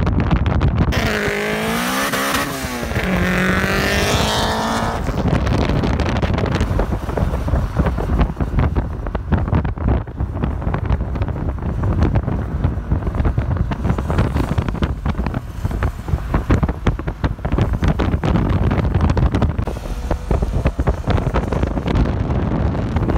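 Turbocharged Honda Civic hatchback's four-cylinder engine pulling at high revs for a few seconds about a second in, its pitch wavering up and down. Then steady wind buffeting and road noise from an open car window at speed.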